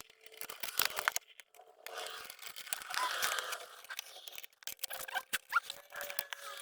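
Hand-tool and parts handling noise: a string of sharp clicks and taps with scraping and rustling, as a Phillips screwdriver and plastic dash trim are worked on.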